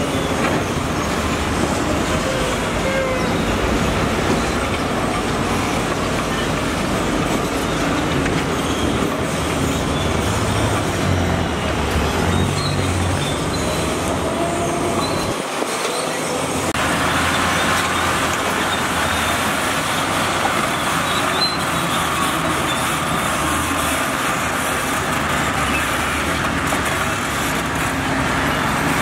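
Heavy diesel construction machinery working: a steady, loud engine rumble with mechanical clatter, changing abruptly about sixteen seconds in.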